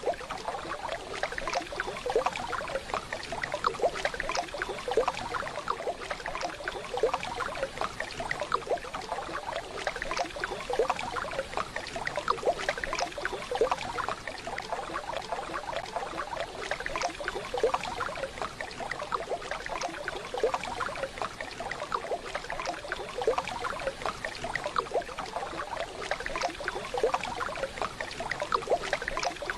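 Waterfall: water splashing and babbling steadily, with a constant rush.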